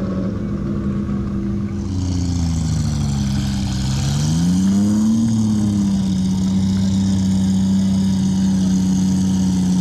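Ferrari 250 GT SWB's V12 engine running. Its note sinks for the first few seconds, rises again about four to five seconds in, then holds steady.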